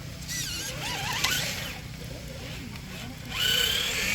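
Electric motor of a Traxxas TRX-4 RC crawler whining, climbing in pitch a little past three seconds in and then holding steady, over a steady low rush of creek water. Earlier, a few high wavering squeaks.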